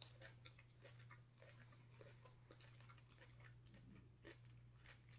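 Faint close-up chewing of a mouthful of salad greens, with many small wet mouth clicks over a low steady hum.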